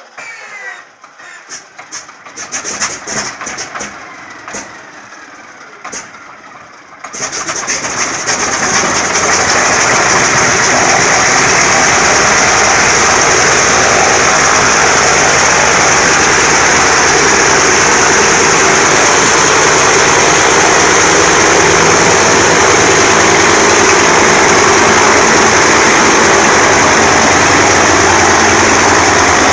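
An-2's ASh-62IR nine-cylinder radial engine being started after long standing: a rising starter whine, then a few seconds of sharp irregular pops as cylinders fire, then about seven seconds in the engine catches and settles into a loud, steady run.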